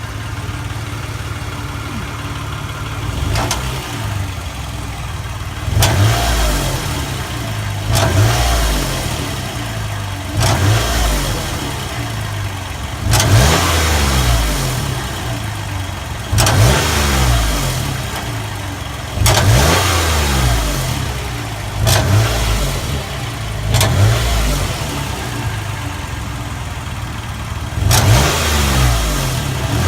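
A 2008 Toyota Sienna's V6 engine idles and is revved briefly again and again, every two to three seconds, each rev rising and dropping back to idle. Along with it there is a clicking tap, which the owner traces to the exhaust.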